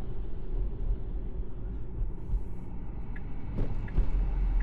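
Steady low road and tyre rumble inside the cabin of a moving Tesla Model 3, with two short knocks near the end.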